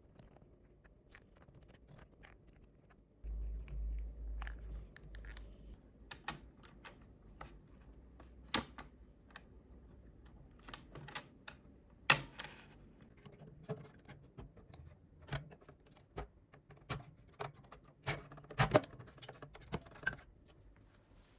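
Irregular small clicks and metallic taps of small parts and tools being handled, with a sharper knock about twelve seconds in and a low rumble for a couple of seconds near the start.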